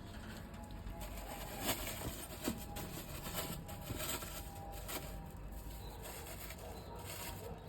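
Faint handling noise: scattered light clicks, taps and rustles, a few every second.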